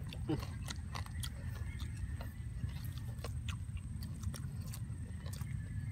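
Two people chewing mouthfuls of crispy roasted pork cheek with crackling skin, with scattered irregular crunchy clicks and wet mouth sounds over a steady low rumble.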